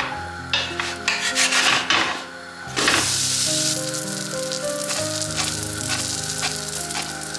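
Food sizzling as it fries in a pan, with a few sharp clicks of stirring or utensils in the first two seconds and the hiss growing louder about three seconds in. Soft background music plays underneath.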